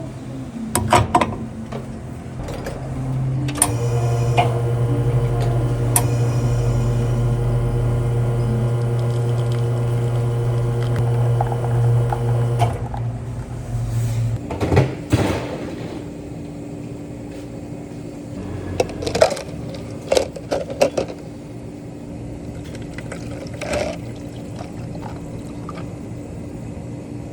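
An electric kitchen appliance starts a few seconds in and hums steadily for about nine seconds, then stops. Scattered clicks and knocks come before and after it.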